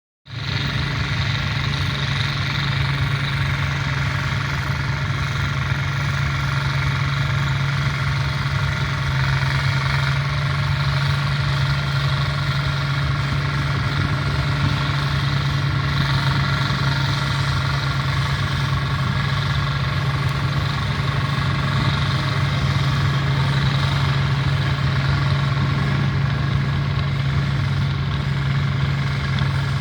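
Turbocharged Cub Cadet 782 diesel garden tractor engine running at a steady speed while pulling a disk harrow through the soil.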